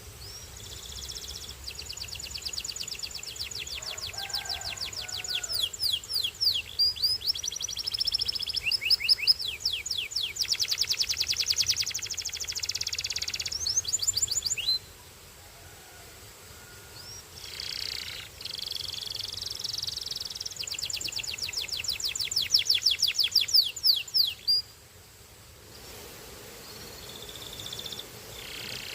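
A canary singing long phrases of rapid, high-pitched trills and rolls, each run a fast even series of repeated notes. The song breaks off twice for a few seconds before starting again.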